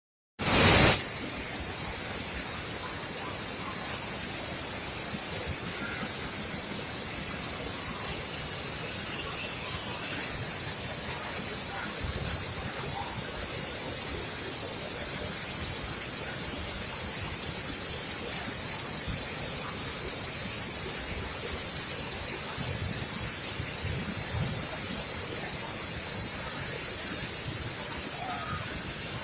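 Waterfall rushing steadily, a continuous hiss of falling water, after a short loud burst in the first second.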